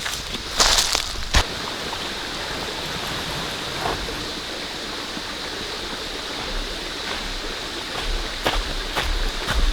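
Steady rain falling, with a few sharp taps near the start and again near the end.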